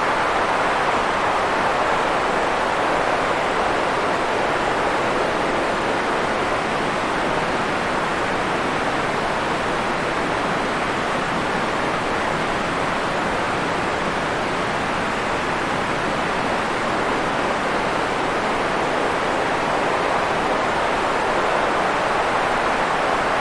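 Steady white-noise track: a smooth, even hiss weighted toward the middle range, softer in the highs and lows, holding a nearly constant level throughout.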